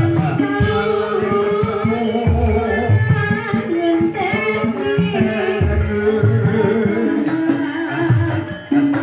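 Live ebeg dance accompaniment: a singer's wavering melody over pitched instruments and steady hand-drum strokes.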